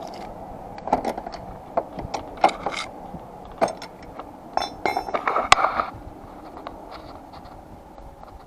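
Metal hand tools clinking and knocking against each other, a run of sharp clicks with a brief metallic ring about five seconds in, then settling down.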